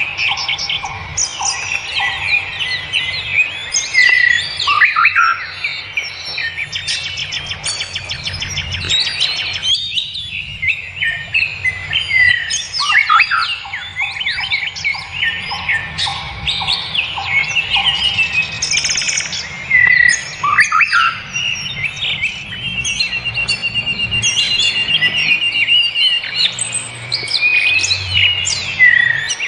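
Small birds chirping and twittering continuously: short high chirps and sweeping calls, with rapid trills in places.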